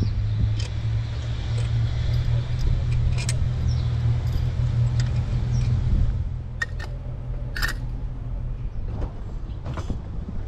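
A 2009 Nissan Maxima's 3.5-litre V6 idling with a steady low hum, on an engine with a misfire. The hum eases about six seconds in. Light clicks and taps come from hands working on parts on top of the engine.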